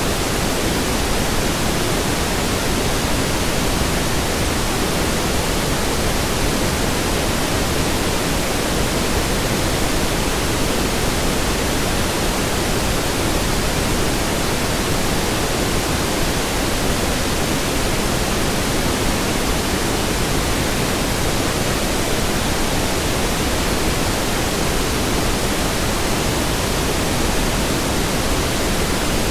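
Steady synthetic pink noise: an even hiss across all pitches, weighted toward the low end, with no change in level.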